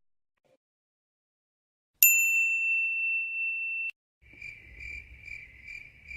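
A single bright bell ding about two seconds in, ringing on one high tone and cut off suddenly after about two seconds. Then, from about four seconds in, the crickets-chirping sound effect: an even, pulsing chirp about two and a half times a second.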